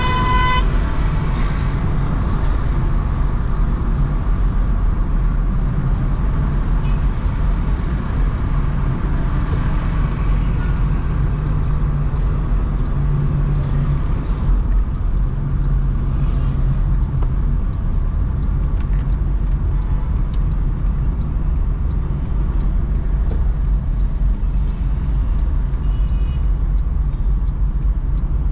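Car driving through city traffic: a steady low rumble of engine and tyre road noise. A short horn sounds at the very start.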